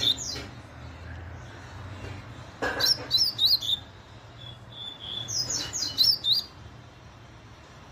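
Double-collared seedeater (coleiro) singing the fast 'laranjeira' song type: three bursts of rapid, high chirping notes with short pauses between them.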